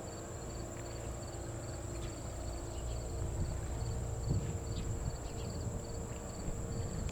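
Insects calling: a steady high-pitched buzz and regular chirps, about three to four a second, over a low rumble.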